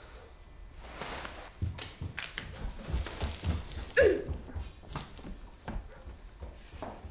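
A run of irregular knocks and thumps, with a short falling squeal about four seconds in.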